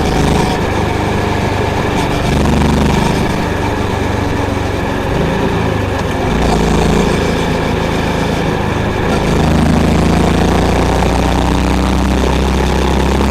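Honda CB350's air-cooled single-cylinder engine and exhaust running under way, its pitch stepping up and down several times as the throttle is opened and eased.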